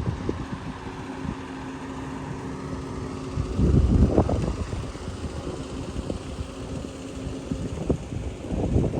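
A vehicle engine hums steadily while wind rumbles on the microphone. The rumble is loudest about four seconds in.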